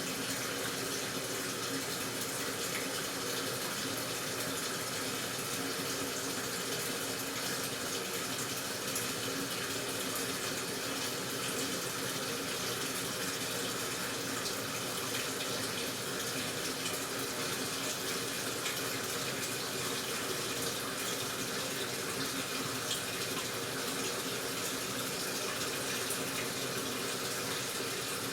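Washing machine with water running into it: a steady, even rush of water with a faint steady hum.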